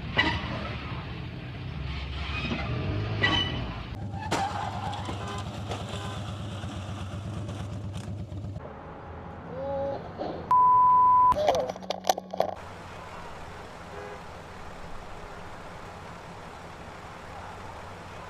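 Running vehicle and road noise as heard from dashcams, changing from one clip to the next. About ten seconds in comes a loud, steady, high beep lasting under a second, followed by a few clicks.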